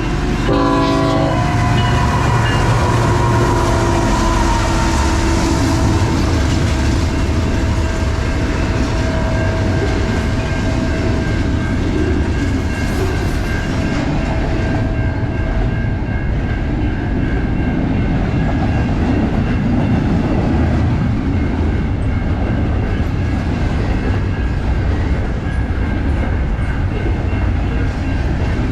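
A train horn blast that ends about a second in, then the loud, steady rumble of a train passing close by, its wheels running on the rails.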